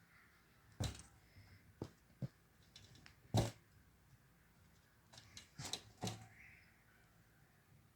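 A handful of sharp clicks and knocks, like objects being handled and set down. The loudest comes about three and a half seconds in, and a quick cluster of them comes near six seconds.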